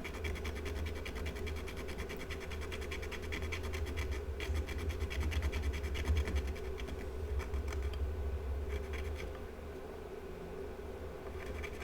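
Glass-fibre cleaning pen scrubbing corrosion off the circuit board of an engine control unit: a rapid, even scratching, over a steady low hum.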